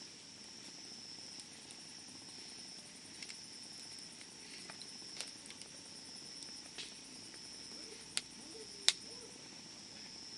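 Wood fire crackling, with scattered sharp pops, the two loudest a little after eight seconds in, under a steady high-pitched insect trill.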